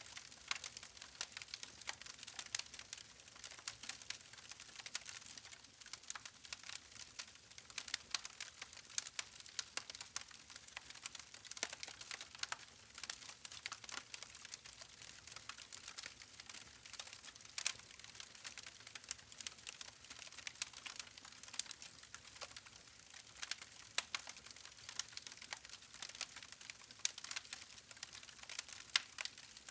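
Wood fire crackling: many irregular sharp pops and snaps from the burning logs over a faint hiss of flame.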